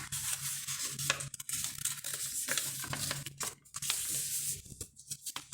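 Sheet of A4 paper rustling and crinkling as it is folded and creased by hand, with many small crackles.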